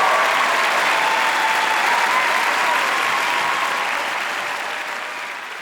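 Live audience applauding, with a few cheering voices over the clapping; the applause slowly dies down toward the end.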